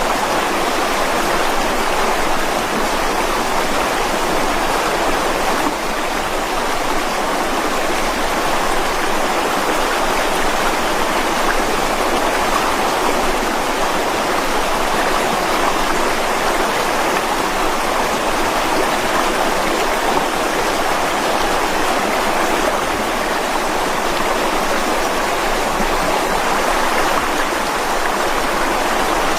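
Mountain stream rushing steadily over rocks: a continuous, even splashing flow.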